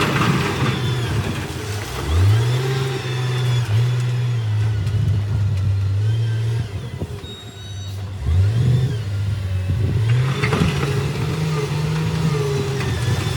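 Heavy machinery's diesel engine revving: the engine pitch climbs steeply twice, about two seconds in and again past the middle, then holds at high revs under load.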